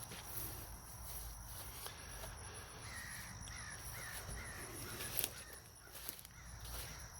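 A bird calling outdoors, a short series of about four calls a few seconds in, over a steady high-pitched buzz.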